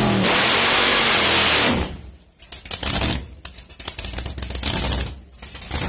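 Oldsmobile 425 V8 in a Ford Capri drag car at full throttle for a short launch, very loud for about two seconds, then cut off abruptly. It drops back to a rough, uneven idle with choppy, irregular pulses.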